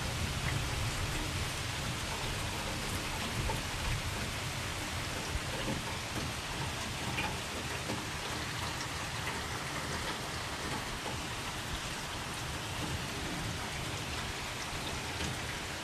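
Steady rain falling, an even hiss with scattered ticks of drops landing on nearby surfaces.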